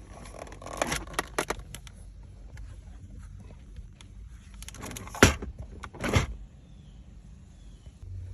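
Handling clatter: a run of small clicks and knocks about a second in, then two loud knocks about a second apart.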